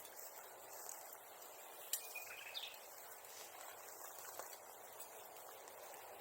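Faint, steady outdoor hiss with a single sharp crack about two seconds in, followed by a brief high chirp.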